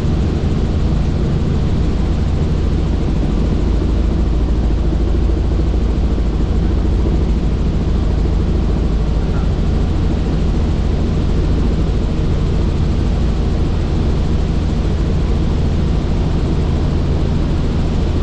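Helicopter in flight: a steady, loud drone from its rotor and turbine engine, with no change in pitch or level.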